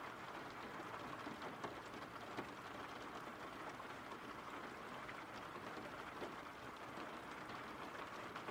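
Faint, steady rain: an even hiss of falling rain with small scattered drop ticks.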